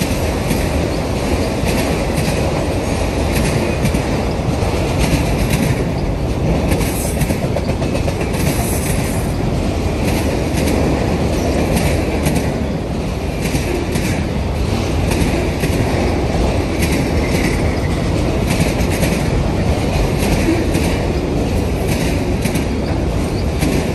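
Norfolk Southern autorack freight cars rolling past, their steel wheels on the rails making a loud, steady rumble with a clickety-clack over the rail joints.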